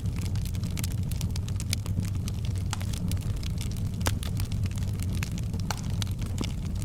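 Firewood burning in a fireplace: a steady low rumble of the flames with frequent sharp crackles and pops, one louder pop about four seconds in.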